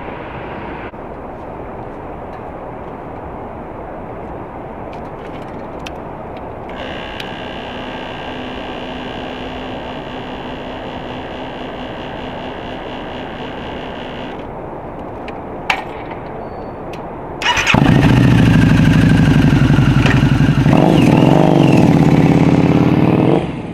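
Custom Harley-Davidson Night Rod's liquid-cooled V-twin starting up about three quarters of the way through, idling loudly and blipped briefly near the end before it cuts off. Before that there is a steady hum, with a whine lasting several seconds.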